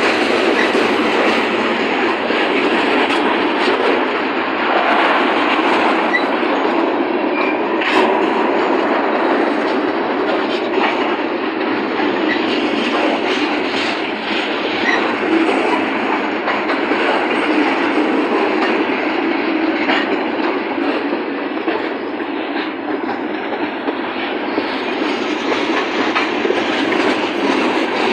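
Train cars rolling past at close range: a steady rumble of steel wheels on the rails with occasional clicks.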